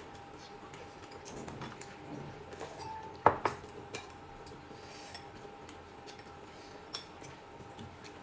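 Cutlery and dishes clinking lightly during a meal: scattered soft taps, with two sharper clinks a little over three seconds in. A faint steady hum runs under them.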